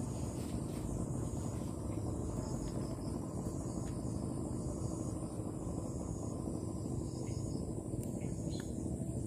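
Insects, crickets among them, chirping steadily in high-pitched pulses over a steady low rumble.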